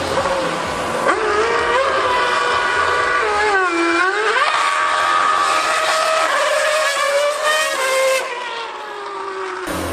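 A 2013 Formula 1 car's V8 screaming at high revs, its pitch stepping up through gear changes. About four seconds in the pitch dips sharply and climbs back, and near the end it slides down and fades.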